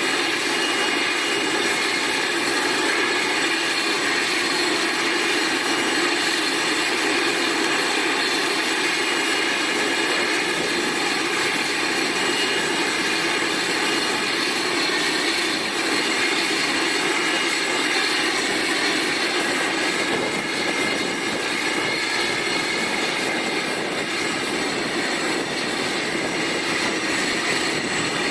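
Four-engine Boeing 747-400 freighter's turbofan engines running steadily: a constant rush with several steady high whining tones over it.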